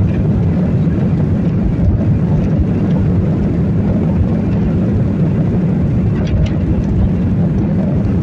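Boeing 737 cabin noise heard from a passenger seat: a steady low rumble of engines and airflow, without a break.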